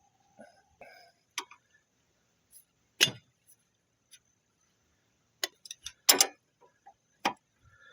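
Metal hand tools clinking and knocking as they are handled and set down: a handful of separate sharp clinks with quiet gaps between them, the loudest about three seconds in and a quick cluster about six seconds in.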